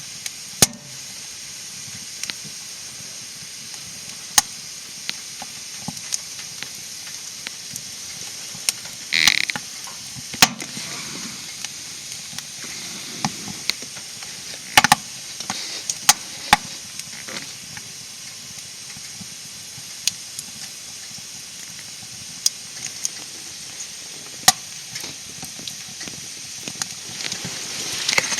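Wood fire burning in a small camp fire stove: a steady hiss under sharp crackles and pops that come irregularly, about every one to two seconds.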